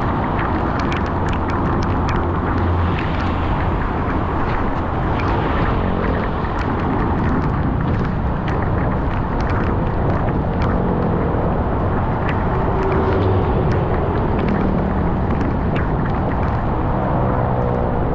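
Heavy rain and muddy runoff rushing into a concrete curbside storm drain, a steady wash of water noise with many sharp drop-taps close by.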